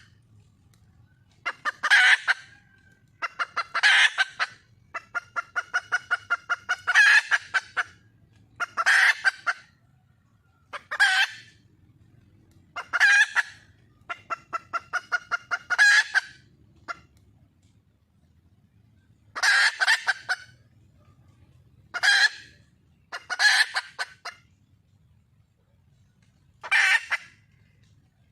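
A wild junglefowl hen calls over and over, the call a hen uses to attract a male. Each call is a quick run of clucks building to a loud harsh note, and the calls come about every two seconds, with one longer run of clucks a third of the way in.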